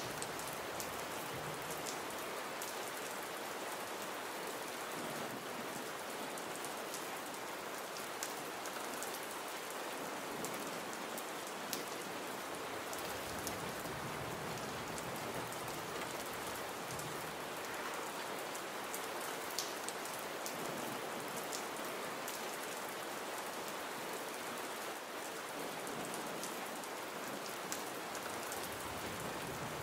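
Gentle rain falling steadily: an even hiss with frequent small ticks of individual drops.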